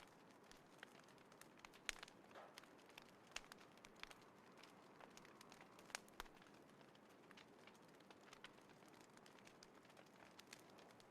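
Small wood fire in a folding fire pit crackling, sharp irregular pops over a faint hiss. The loudest pops come about two seconds in and about six seconds in, and they grow sparser in the second half.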